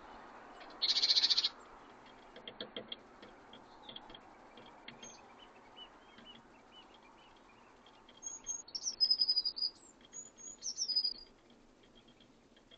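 Small wild birds calling and singing: a loud, fast trill about a second in, scattered short chips and ticks, then two high whistled song phrases later on.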